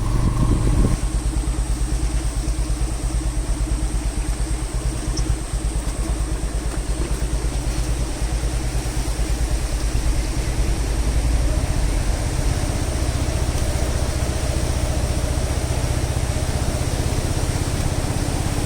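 Motorcycle engine running steadily while being ridden along a road, its exhaust pulses even throughout.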